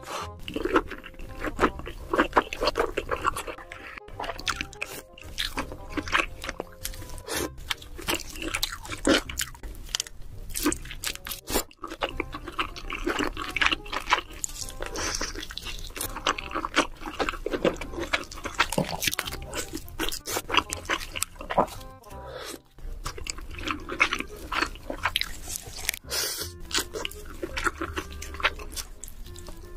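Close-miked eating of king crab: repeated crunching and chewing. Several clips are cut together, with abrupt breaks between them.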